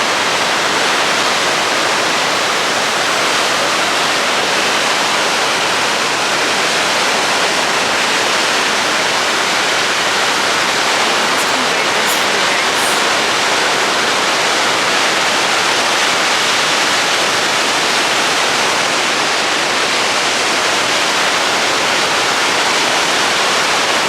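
Victoria Falls, the Zambezi's water pouring over the falls: a loud, steady rushing noise that does not change.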